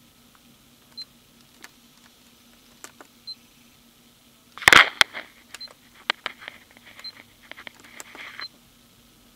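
Scattered sharp clicks and taps. A loud knock comes about halfway through, followed by a quick run of clicks and rustling, over a faint steady hum.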